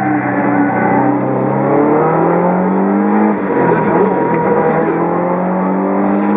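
Subaru Impreza GC8 rally car's flat-four engine, heard from inside the cabin, pulling hard with its pitch rising. About three seconds in the pitch drops sharply, then it climbs again and holds steady near the end.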